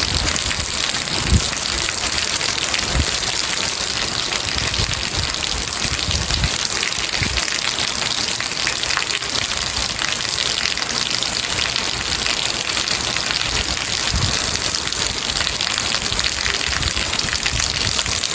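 Steady heavy rain, a dense even hiss, with a few brief low thumps.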